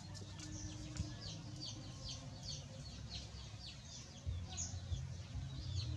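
Birds chirping: many short, high, falling chirps repeating rapidly, over a low steady hum.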